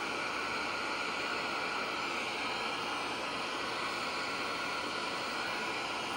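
Steady static hiss from a vintage Zenith TV set's speaker, switched on with a raster on screen but no programme coming through.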